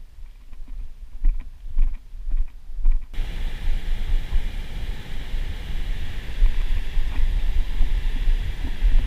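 Wind rumbling on the microphone outdoors, with a few light knocks. About three seconds in, a steady rushing hiss starts abruptly and carries on.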